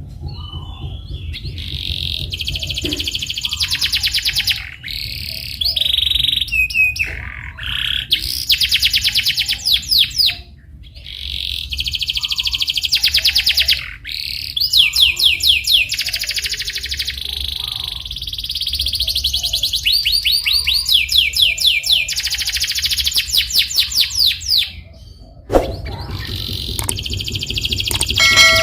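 Domestic canary singing long rolling trills: phrases of rapidly repeated high notes, each lasting a few seconds, with short breaks between them, over a low steady hum.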